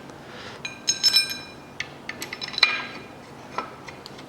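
Small steel bolts and tools clinking against metal with short bright rings: a cluster of clinks about a second in, then scattered single ones.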